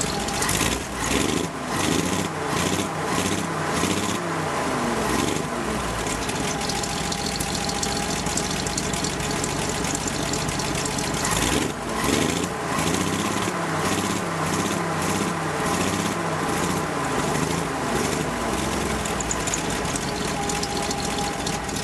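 Volvo A6 straight-six petrol engine running cold at −13 °C shortly after a cold start, its revs rising and falling repeatedly in two spells, near the start and again from about halfway.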